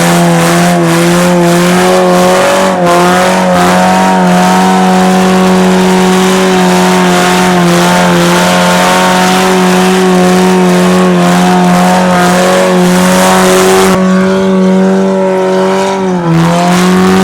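Straight-piped Pontiac 2.2 four-cylinder held at high revs with the tyres spinning in a burnout, the engine note steady and a tyre hiss over it. The tyre noise drops away near the end while the engine keeps running, dipping briefly and picking up again.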